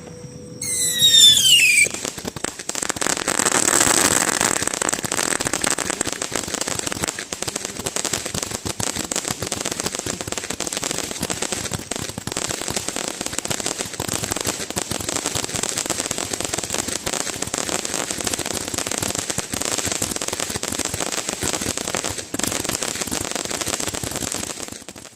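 Fireworks: a brief falling whistle, then a dense, unbroken barrage of crackling bangs that goes on for over twenty seconds and cuts off suddenly.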